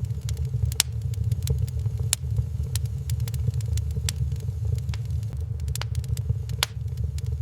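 Wood fire burning in a fireplace, crackling with sharp irregular pops, several a second, over a steady low rumble.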